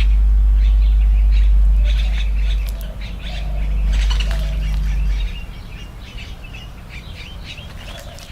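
Blue jay calling: many short calls repeated again and again, over a loud low rumble on the recording that drops away about five seconds in.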